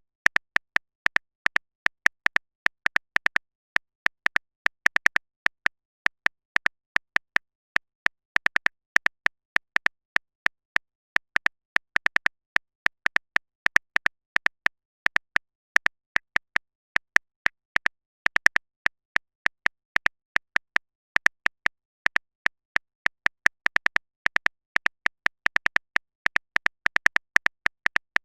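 Typing sound effect of a phone keyboard: quick, sharp clicks in irregular clusters of a few a second, each with a bright tick, separated by silence.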